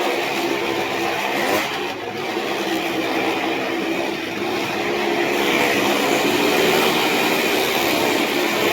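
Motor vehicle engines running steadily at a held speed, with a continuous mechanical drone.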